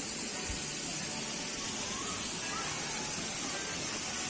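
Waterfall pouring hard into its pool: a steady, even rush of falling water.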